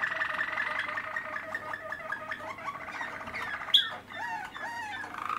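Malinois (Waterslager) canary singing: a rapid rolling trill, then separate gliding notes, with one short sharp high note about two-thirds of the way through.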